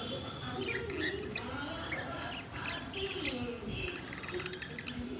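Birds chirping, with many short high chirps following one another and lower calls underneath.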